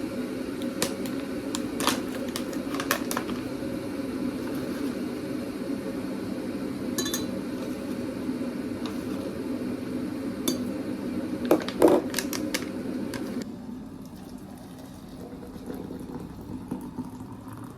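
Clinks of a mug, glass and spoon while chamomile tea is made, over the steady low rumble of a kettle heating that cuts off suddenly about thirteen seconds in. The loudest clinks come just before the rumble stops.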